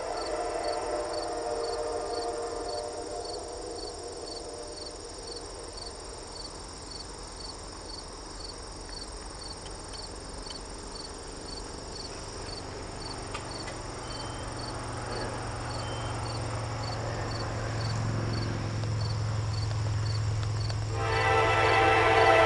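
An approaching diesel train. A horn chord fades away over the first few seconds, the locomotive's low engine hum grows from about halfway, and the horn sounds loudly again near the end. Crickets chirp steadily throughout, about two chirps a second.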